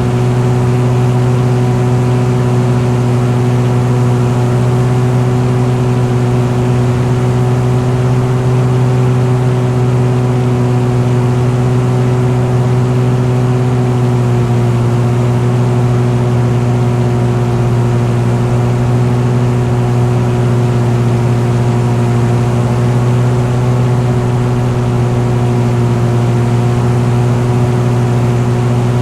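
An engine running at a steady cruise: a constant drone with a strong low hum, its pitch shifting slightly about halfway through.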